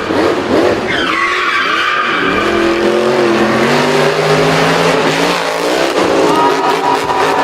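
Racing-car engine revving up and down with tyres skidding and squealing.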